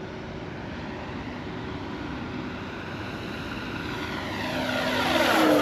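Radio-controlled FlightLine Corsair electric warbird making a full-throttle low pass, its propeller and onboard engine-sound system running together. The sound grows steadily louder as the plane approaches, peaking near the end with a sweeping whoosh as it goes by.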